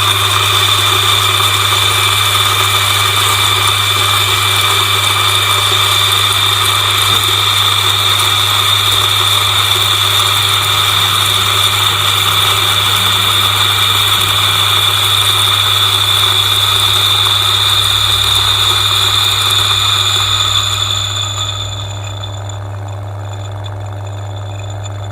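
DF64 electric coffee grinder with SSP multipurpose burrs grinding a 20 g dose of beans: a steady motor hum with a high whine. About 21 seconds in it turns quieter and the whine fades as the beans are used up and the burrs spin empty.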